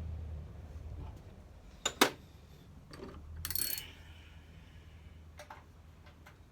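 Metal hand tools and small engine parts being handled: two sharp metallic clicks about two seconds in, a short rasp a little later, and a few lighter clicks near the end.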